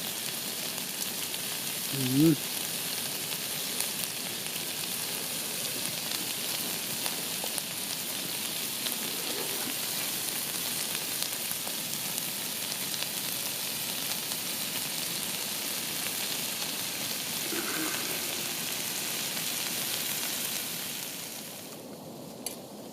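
Food sizzling in a frying pan on a small tent stove: a steady frying hiss that dies away near the end. About two seconds in there is a short vocal sound.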